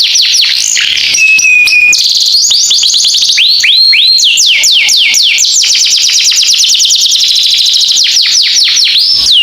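Oriental magpie-robin (kacer) singing a canary-style song: a loud, unbroken stream of rapid whistled notes, most of them sweeping down in pitch and repeated several times a second.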